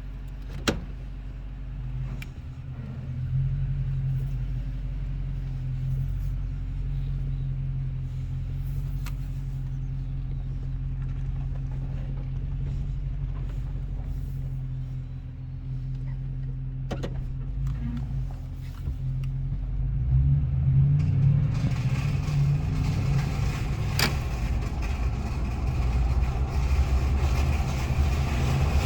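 Toyota Tundra pickup engine running cold with a steady low hum and a sharp click near the start. About twenty seconds in, the sound grows louder and fuller with a rougher, hissing edge. This is the cold-running noise the owner is documenting.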